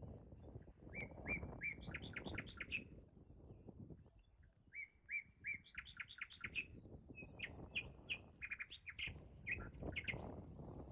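A songbird singing the same phrase three times: a few clear notes, then a quick run of rising notes. Uneven low background noise runs underneath.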